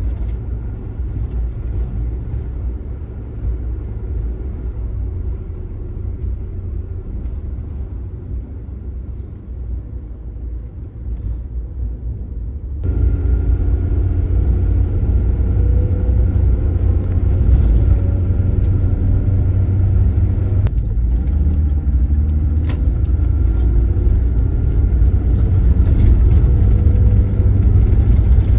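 Car driving, with a steady low rumble of engine and road noise. About thirteen seconds in it suddenly gets louder, and the engine pitch wavers up and down.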